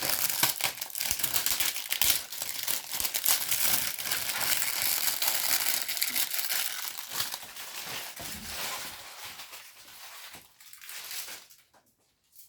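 Plastic packaging crinkling and rustling as it is handled, likely wrapping from a roll of brake line being unwrapped; the crackling is dense at first and tapers off near the end.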